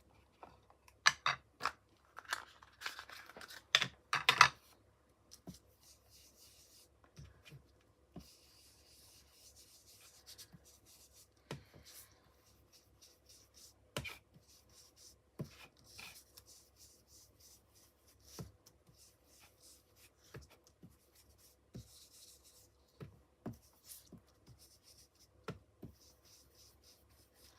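Ink being applied to the edges of an embossed card butterfly: soft rubbing and dabbing of the applicator on the card, with occasional clicks. A cluster of sharp clicks and knocks from handling the tools comes in the first few seconds and is the loudest part.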